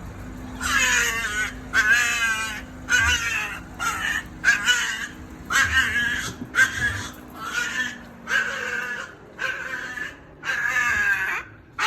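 Chihuahua screaming: a string of about a dozen high, wavering yowls, roughly one a second, in excitement at its owner coming home.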